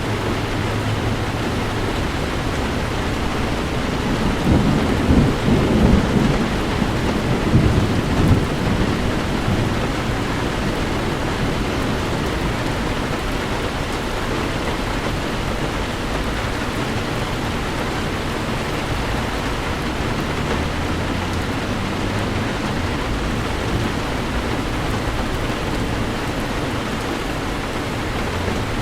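Heavy rain falling steadily on a car, with a low rumble of thunder swelling and fading between about four and nine seconds in.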